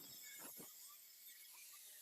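Near silence: faint hiss with a few faint clicks about half a second in and some faint short chirps.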